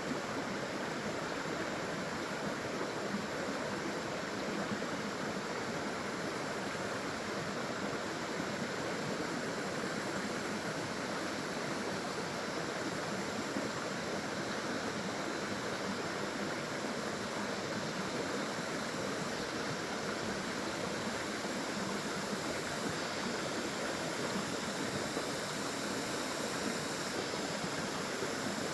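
Small waterfall or stream: water splashing and flowing in a steady, unbroken rush with no distinct events.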